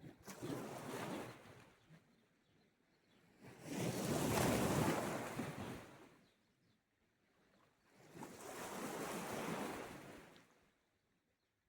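Sea waves washing onto the shore, three swells of surf each rising and falling away, the middle one the loudest.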